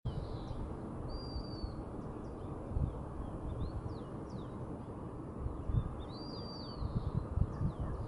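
High, thin bird calls: two brief held whistles, about a second in and again past the six-second mark, and several short downward-sliding notes, over a steady low rumble of background noise.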